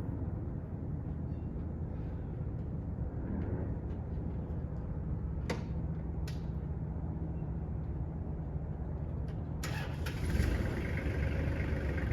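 A vehicle engine idling steadily, with two sharp clicks near the middle. Near the end a sudden hissing rush comes in and the engine gets a little louder.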